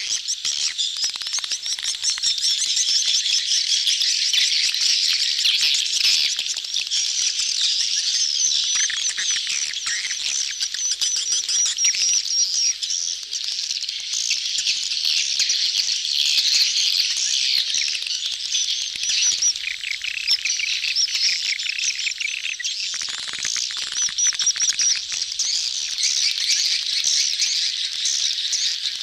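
A dense colony of swiftlets twittering without pause, many high chirps overlapping. This is the busy crowding and mating chatter that is used as a lure call to draw swiftlets into a nesting house.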